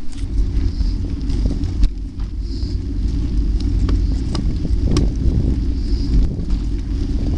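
Wind buffeting the microphone of a riding bike, a steady low rumble with a few sharp clicks.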